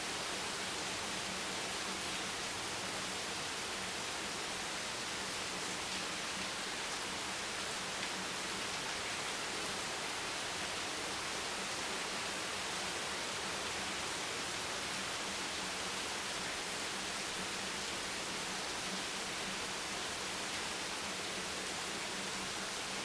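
Steady, even hiss of rain, with no single drops standing out, over a faint low hum.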